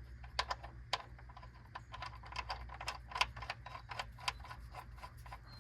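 Light, irregular metallic clicks and taps as the oil drain plug is handled and threaded back into the oil pan by hand.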